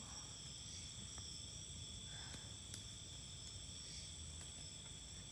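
Night insect chorus, crickets chirring in steady, high-pitched tones at several pitches at once.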